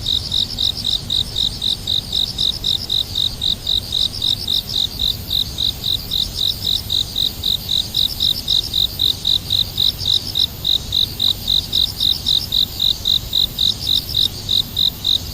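Cricket chirping steadily in an even rhythm, about three or four chirps a second, with a second, higher insect trill coming and going above it.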